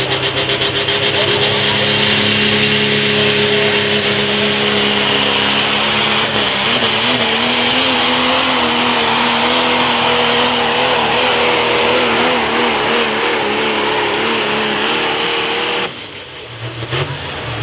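Pro stock diesel pulling truck running at full power under load, its engine mixed with a high turbo whistle. About six seconds in the engine note starts to waver up and down, and about sixteen seconds in the sound drops away suddenly as the engine is let off.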